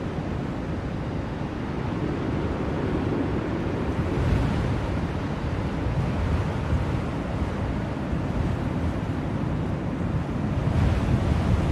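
Steady blizzard wind rushing, with gusts swelling about four seconds in and again near the end.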